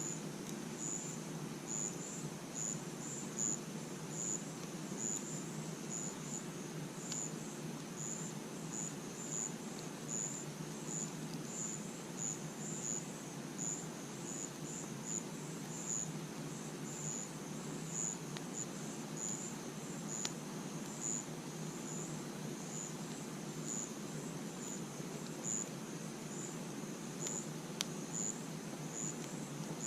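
Crickets chirping in a steady, even rhythm of about two high chirps a second, over a low steady rumble, with a few faint crackles from a campfire.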